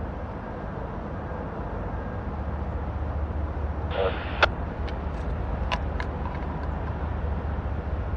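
Low, steady rumble of distant Norfolk Southern diesel locomotives approaching, growing slightly louder. About halfway through comes a brief higher sound, then a few sharp clicks.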